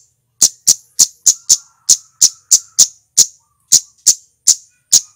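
Male cit keres (cabe-cabean flowerpecker) giving a rapid run of short, sharp, very high 'tsit' chips, about fourteen at roughly three a second, slightly uneven in spacing.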